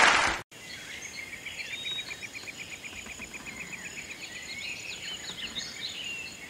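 Applause cut off suddenly about half a second in, followed by a jungle soundscape of bird calls over a faint hiss. The calls include a rapid chirping trill and scattered higher chirps.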